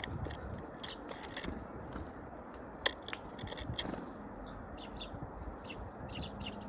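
Small birds pecking at a feed mix with dried insects, giving irregular sharp taps, scrapes and crunches, with one louder tap about three seconds in.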